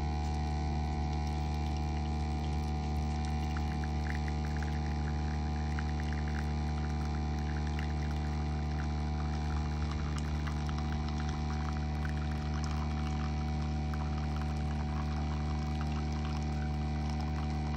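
Spinn coffee maker's centrifugal brewing motor running with a steady hum while coffee pours out into the cup.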